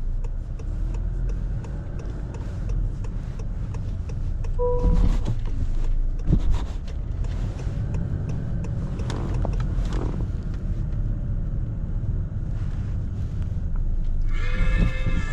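Steady low rumble of a car on the move, heard from inside the cabin, with a short beep about five seconds in and a few light knocks.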